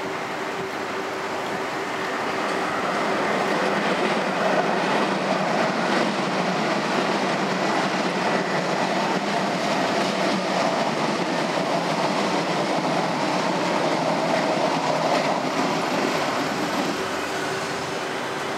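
Train rolling past on the tracks. The rolling noise swells over the first few seconds, holds steady, then fades near the end.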